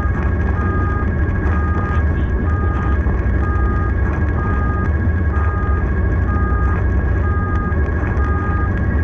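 Emergency vehicle's two-tone hi-lo siren, alternating between a high and a low note about once a second, over the steady low rumble of the vehicle's engine and road noise.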